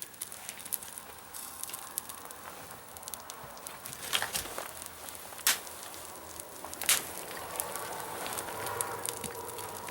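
Small wood fire crackling, with three sharper pops about four, five and a half, and seven seconds in.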